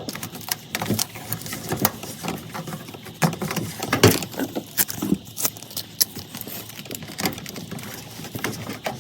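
Tape being worked onto a furnace's sheet-metal edge: irregular crinkling, clicks and light scraping as it is laid and pressed down.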